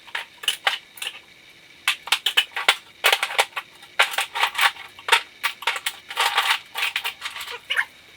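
Irregular metallic clicks and clatter of hand tools working on engine parts, coming in quick clusters with short pauses.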